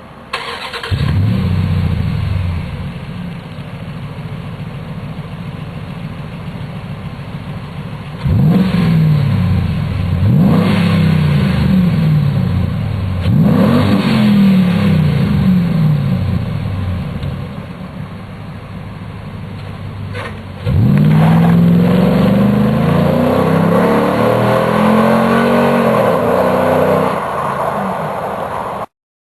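Dodge Ram 1500's 5.7-litre Hemi V8 heard through an SLP Powerflo aftermarket exhaust: it starts up and settles to a steady idle, is revved in three quick blips that rise and fall, then is held at higher revs for several seconds with the pitch wavering, before the sound cuts off suddenly.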